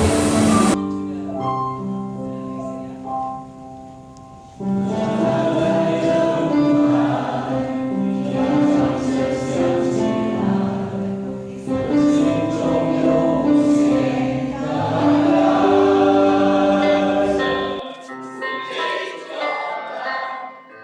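Choir singing long held notes over musical accompaniment. The music drops out a little before four seconds in and comes back loudly about half a second later, and the bass falls away near the end.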